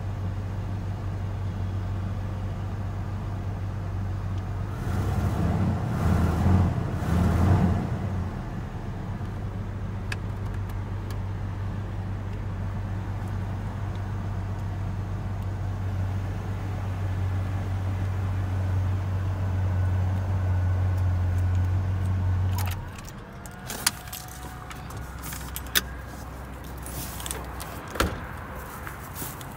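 Compact GM pickup's engine idling with a steady low hum, revved briefly a few seconds in, then shut off a little after twenty seconds. A few sharp clicks follow.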